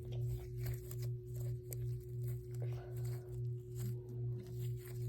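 Soft, scattered crackling clicks of cookie-dough slime being folded and squished by hand. Under them runs a steady low hum that throbs about twice a second, and this hum is the loudest sound.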